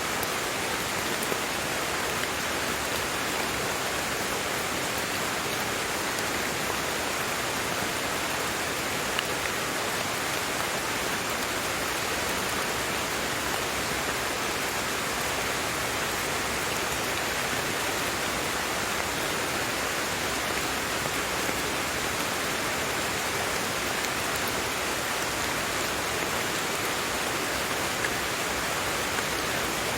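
Steady rain, an even hiss with a few slightly louder drops here and there.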